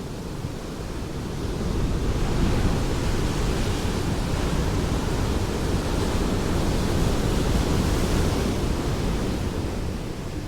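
Ocean surf: a wave rushing in, swelling about two seconds in and washing back out near the end.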